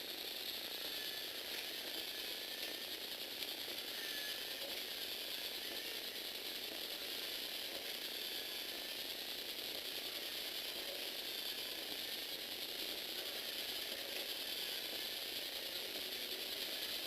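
Lego Technic gear train and motor running steadily, a continuous plastic whirring and rattling of meshing gears.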